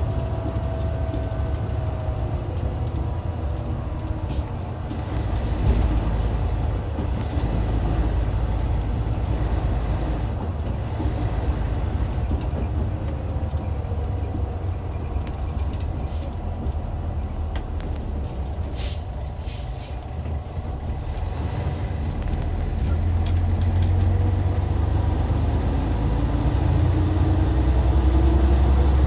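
Hyundai D6CC inline-six diesel of a Hyundai Universe coach running under way with a steady low rumble. The engine note falls early on, there is a brief hiss about two-thirds of the way through, and the engine pulls with a rising note and growing loudness near the end.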